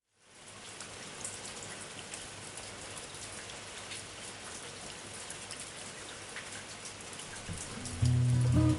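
Steady rain falling, a fine hiss full of separate drop patters, fading in at the start. Music comes in near the end and becomes the loudest sound.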